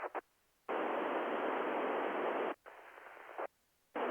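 Radio receiver hiss from the ICOM 9700 on the ISS FM repeater downlink, with no voice in it. It cuts sharply in and out as the squelch opens and closes: a few short bursts, then about two seconds of steady static from under a second in, a quieter stretch, and a brief burst near the end.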